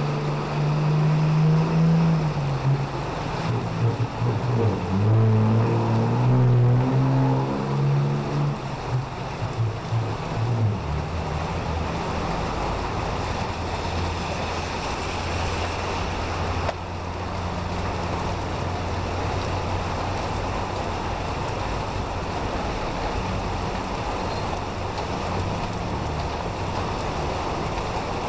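Heavy rain pouring steadily onto a street. For the first ten seconds a low pitched sound that changes note every half second or so sits over it, then gives way to a steady low hum.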